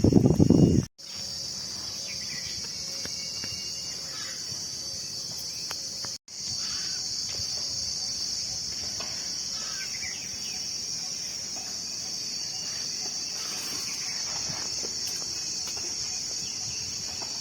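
Steady high-pitched chirring of a cricket or insect chorus. It opens with about a second of loud low rumbling noise, and the sound drops out abruptly twice.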